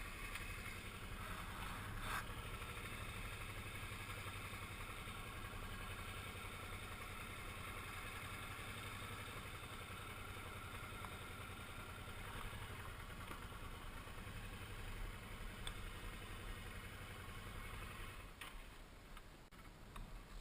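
Suzuki V-Strom 650's V-twin engine running steadily at low speed, going quieter about eighteen seconds in.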